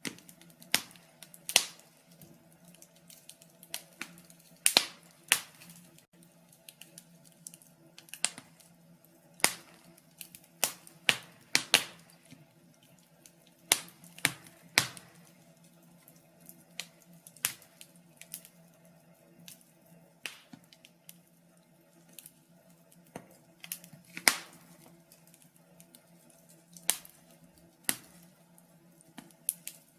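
Wood fire crackling in a fireplace: irregular sharp pops and snaps, a few of them loud, over a faint steady hum.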